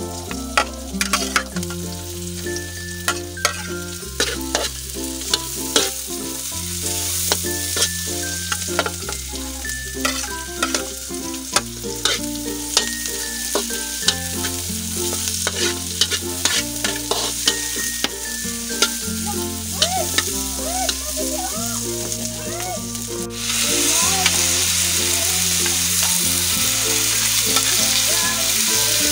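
Shallots, garlic and ginger sizzling in a hot wok, with a metal spatula clicking and scraping against the pan as it stirs. The sizzle turns suddenly louder about 23 seconds in, once more vegetables are in the wok. Background music with a steady bass line plays throughout.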